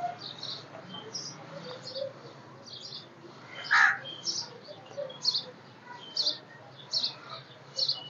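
Birds chirping: short high chirps repeated roughly once a second, with one louder, lower call about four seconds in.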